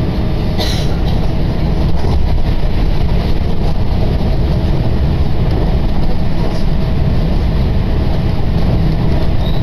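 Tokaido Line commuter train running, heard from inside the passenger car: a steady low rumble of wheels and running gear, with a brief high hiss a little over half a second in.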